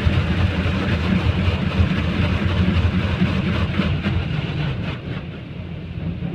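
High-pressure water jets of a touchless automatic car wash's undercarriage blaster spraying the underside of a car, heard from inside the cabin as a loud, dense hiss and drumming of water that eases off near the end.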